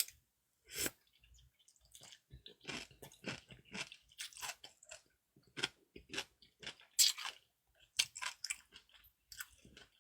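A person chewing food close to the microphone: an irregular run of short wet smacks and mouth clicks.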